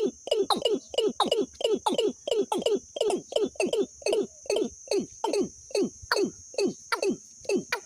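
Bird call repeated rapidly: short notes that slide sharply downward, about three a second and often in close pairs. A steady high insect buzz runs underneath.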